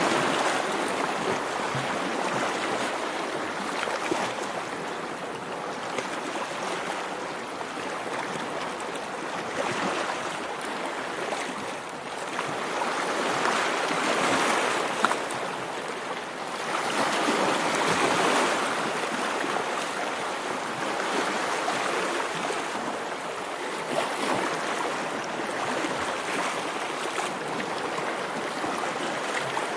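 Ocean waves washing in and drawing back, a steady rushing that swells and fades every few seconds.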